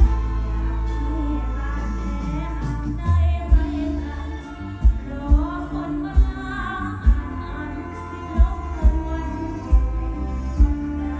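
Thai mor lam band playing live through a PA system, a woman singing a wavering melody over sustained keyboard-like tones and heavy kick-drum thumps.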